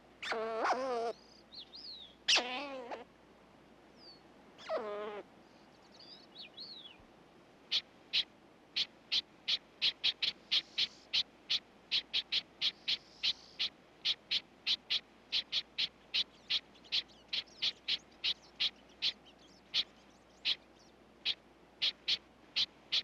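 Red squirrel calling: three harsh, wavering screeches in the first few seconds, then a long run of short, sharp barks at about three a second, typical of a red squirrel defending its food cache.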